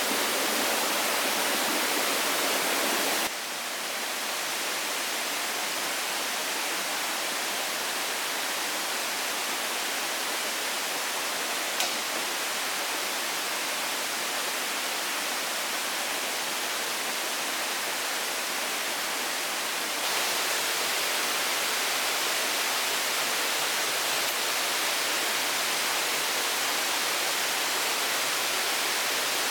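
Steady rushing hiss, with no clear tone or rhythm, that changes abruptly in tone and level about three seconds in and again about twenty seconds in, as at cuts between shots.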